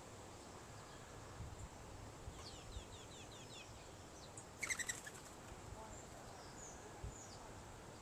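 Small birds chirping: a quick run of short falling notes a couple of seconds in, then a brief rapid chatter, the loudest sound, a little past the middle, and a few single chirps after it. Wind rumbles faintly on the microphone.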